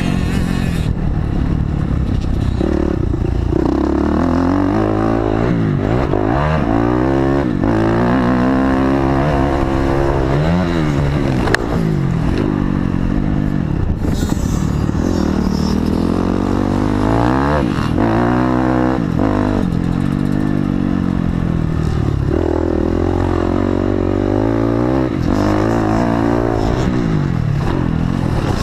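Honda CRF250X's single-cylinder four-stroke engine being ridden hard, its pitch rising and falling over and over as the throttle is opened and closed every few seconds.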